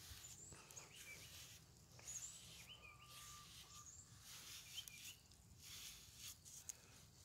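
Near silence, with a few faint, brief bird chirps scattered through it.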